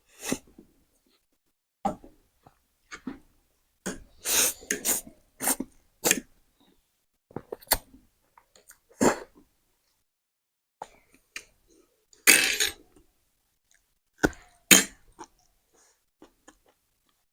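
People eating very spicy noodles: short, irregular bursts of slurping, sniffing and coughing, the coughs brought on by the chili heat.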